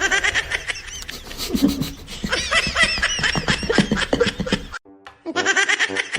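High-pitched laughing and squealing chirps, many in quick succession, over music; about five seconds in the sound breaks off and another stretch of music with steady held tones begins.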